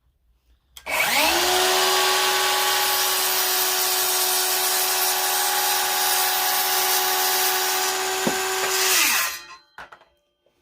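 Electric power saw starting up about a second in and running with a steady whine while cutting a board, then switching off and winding down near the end.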